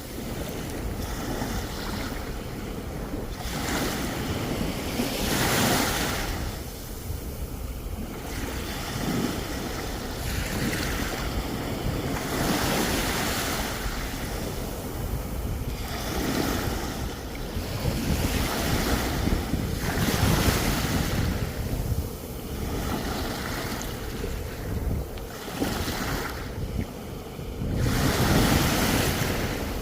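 Sea waves breaking on the shore, the surf swelling and easing every few seconds, with wind on the microphone.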